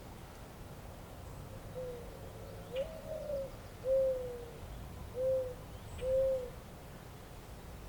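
A dove cooing: five low, hollow coos starting about two seconds in, the second one the highest, over a steady low background rumble.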